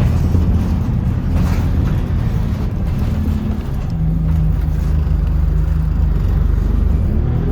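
Bus engine running with a low, steady drone, a steady hum settling in about halfway through; near the end the pitch begins to rise as the bus accelerates.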